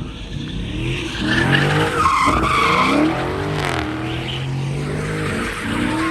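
Car engines revving up and down hard, with tires squealing against the pavement, loudest about two seconds in, as in a burnout or donut.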